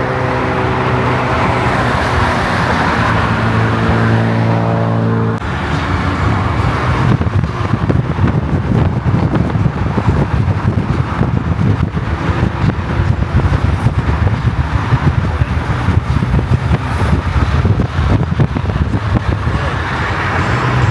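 Car engine running at a steady pitch that steps up about four seconds in, then cut off abruptly by loud, crackling, rushing noise of a car driving at speed.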